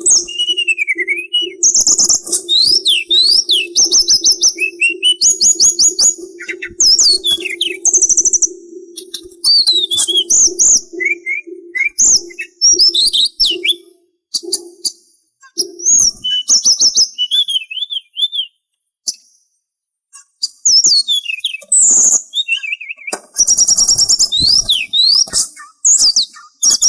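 Sulingan songbird singing a long, varied run of rapid whistled chirps and trills, many notes sliding up and down in pitch, with short pauses. A steady low hum sits beneath the song for the first half and stops a little past the middle.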